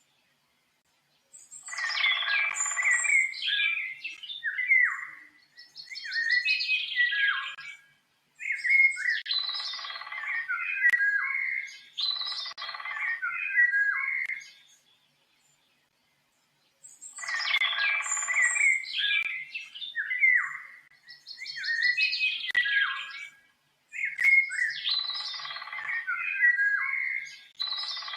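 A songbird singing long bouts of quick, varied chirps, trills and whistles, with a short silence before the first bout and another about halfway. The same run of song repeats about fifteen seconds later, as in a looped recording.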